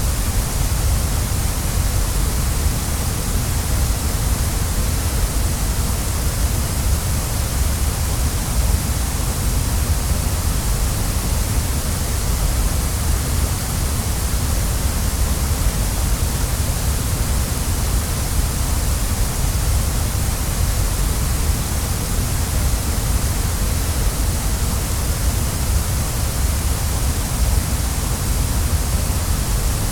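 Waterfall rushing steadily: unbroken white-noise water sound, strongest in the deep rumble and the high hiss, with no changes.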